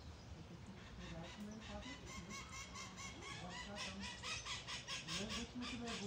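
Birds calling: a rapid series of short chirping notes that begins about a second in and grows louder and busier near the end, with lower calls beneath.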